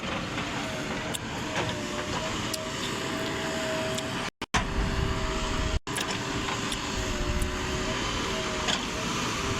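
JCB 3DX backhoe loader's diesel engine running under working load, with a steady hum whose pitch wavers slightly. The sound breaks off twice for a moment near the middle, then comes back with more low rumble.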